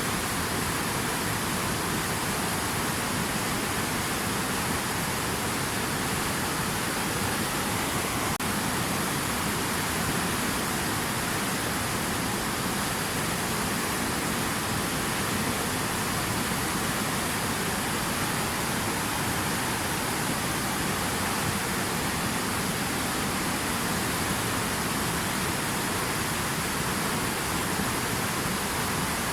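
Steady rush of water: an even, unbroken hiss with no separate drops or splashes.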